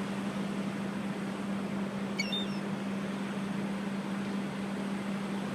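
A brief high gull call about two seconds in, over a steady low hum and a wash of open-air noise.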